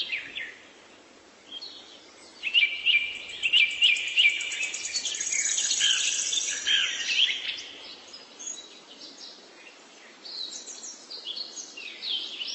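Small birds chirping and trilling, many short sweeping calls, busiest in the first half with a high rapid trill near the middle, then sparser calls.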